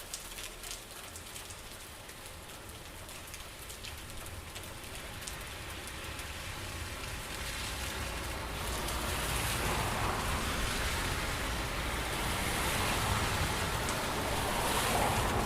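Rain falling, with separate drops ticking at first. It then swells steadily louder and heavier from about the middle.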